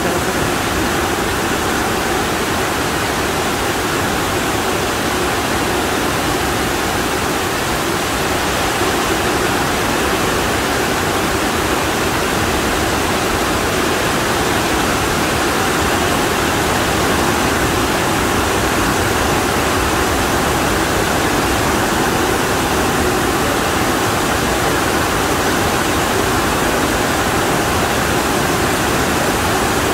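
Torrential monsoon rain pouring down, a dense, steady hiss with no letup.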